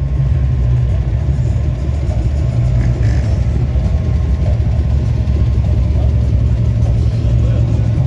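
A car engine running with a loud, steady low exhaust rumble.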